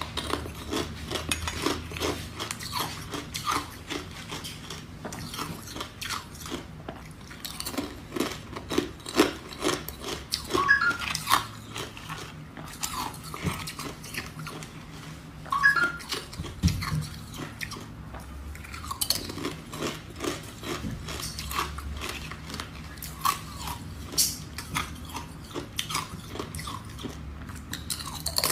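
A person biting and chewing ice, with many sharp, irregular crunches in quick succession.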